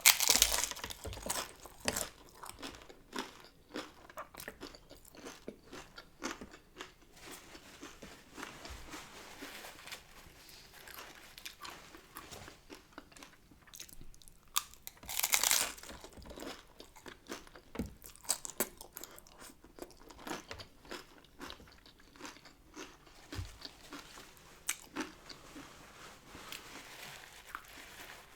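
Close-up biting and chewing of a hard-shell taco, the crisp corn shell crunching and cracking with each bite. The loudest crunches come right at the start and again about fifteen seconds in, with steady chewing between.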